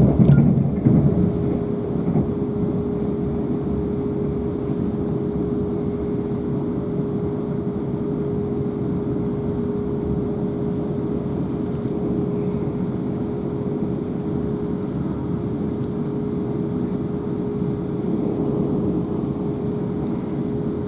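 Running noise of a Class 444 electric multiple unit heard from on board at speed: a dense low rumble of wheels on track with a steady hum. The rumble swells louder for about a second at the start.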